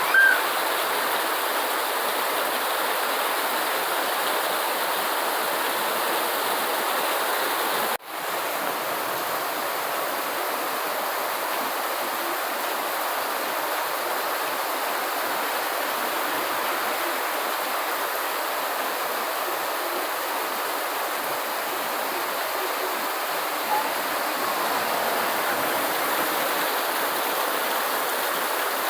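Steady rain, an even hiss of falling water with no rhythm. The sound drops out for an instant about eight seconds in. A brief high chirp is heard right at the start.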